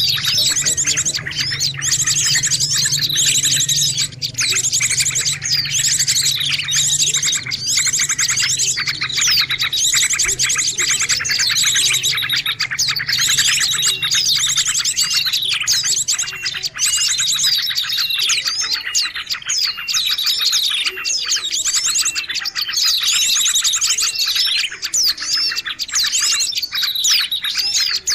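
A dense, noisy chorus of many small birds chirping and trilling over one another without a break: a mixed-species bird-lure call recording.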